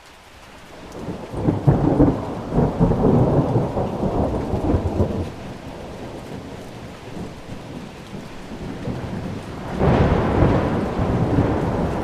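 Thunder rolling twice over steady rain: a long low rumble builds in the first two seconds and dies away over several seconds, then a second peal breaks sharply near the end.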